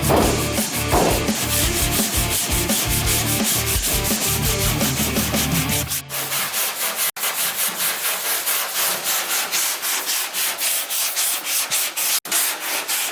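Sanding on car bodywork, a fast, even run of rasping strokes, typical of sanding down body filler on a panel.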